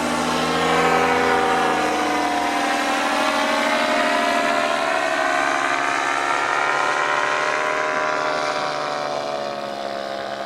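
Propeller-driven aircraft motors running steadily, several pitched tones drifting slowly up and down together; a low hum drops away a few seconds in.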